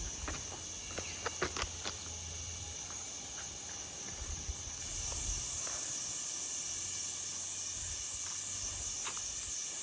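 Insect chorus in forest: a steady, high-pitched shrill drone that swells louder about five seconds in, with a few faint clicks near the start.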